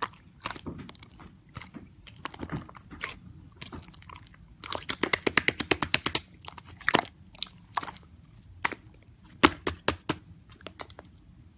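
Slime being squeezed and poked by hand, making sticky clicks and air-bubble pops, with a dense, rapid run of crackling clicks about five seconds in and a few louder single pops near the end.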